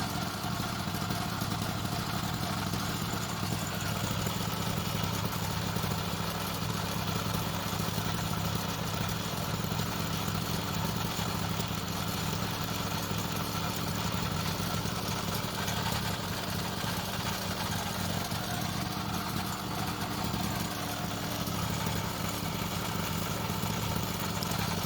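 Motorized bicycle's engine running steadily at idle, with its drive chain turning over a newly fitted spring-loaded tensioner.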